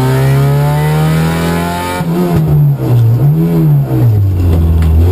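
Opel Astra GSi 16V rally car's four-cylinder engine heard from inside the car, pulling hard with revs slowly climbing. The revs drop sharply about two seconds in, rise and fall again around three and a half seconds, then settle lower near the end.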